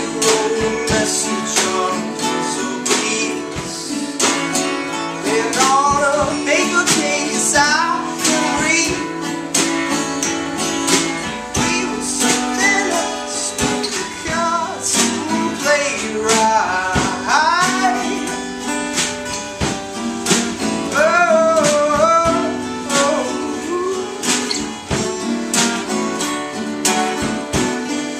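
A live band playing a song: strummed acoustic guitar, with a voice singing over it at times.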